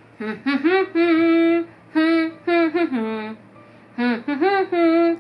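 A woman humming a simple tune, held notes in three short phrases with brief pauses between them.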